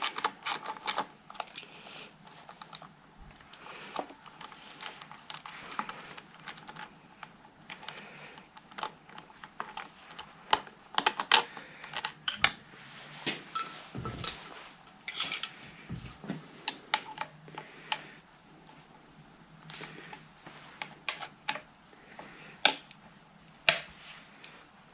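Hand tools working on a motorcycle's handlebar fittings, loosening bolts: irregular small clicks and taps of metal on metal, with a few sharper knocks.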